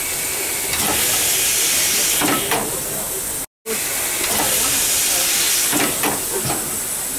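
Steam locomotive letting off steam: a loud, steady hiss that swells twice, cut by a brief dropout in the middle.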